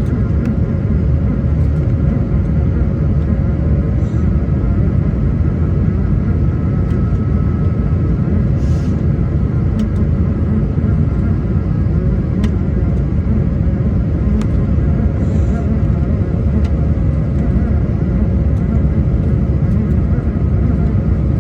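Airbus A220 cabin noise: a steady, loud low rumble of engines and airflow with a steady whine on top, and a few faint clicks from the cabin.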